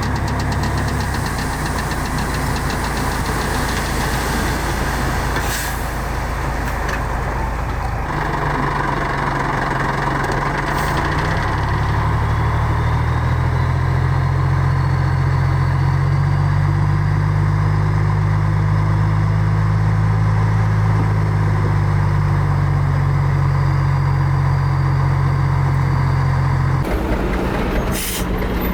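Heavy diesel engine of earthmoving machinery running steadily under load. The engine note grows stronger and fuller about twelve seconds in. The sound changes abruptly near the end.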